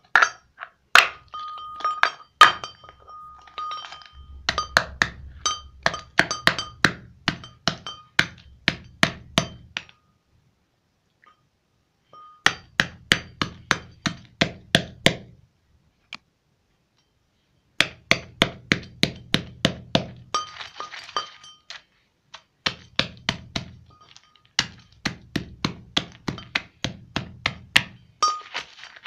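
Repeated hand pounding with a metallic ring, quick strikes about three a second in several runs, crushing a calcium ingredient for bird feed into small pieces.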